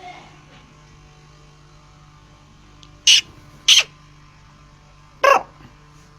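Black francolin (kala teetar) calling: three short, loud, sharp notes, two in quick succession about three seconds in and a third about two seconds later.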